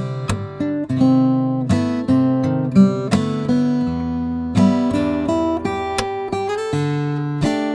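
Acoustic guitar music: plucked notes and chords, each ringing and fading before the next.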